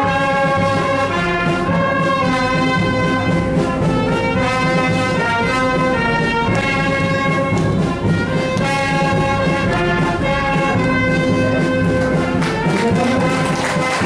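Brass band music with held, changing notes, starting suddenly and playing on loud and steady, as a fanfare does while awards are handed out.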